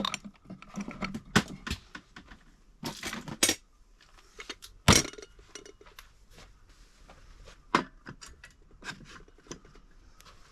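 Irregular clinks and knocks of hard objects being handled, the loudest about five seconds in.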